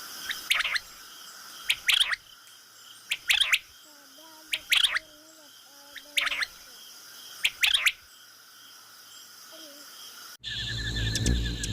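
A bird giving short, sharp calls, mostly in pairs, roughly every second and a half, over a steady insect chorus. Faint low wavering tones sound around the middle. Near the end the sound cuts abruptly to a louder low rumble and a different rhythmic trill.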